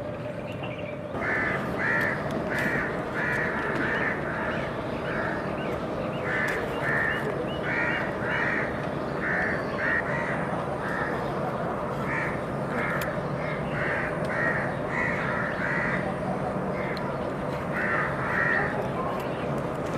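Birds calling over and over in short harsh calls, two or three a second, starting suddenly about a second in.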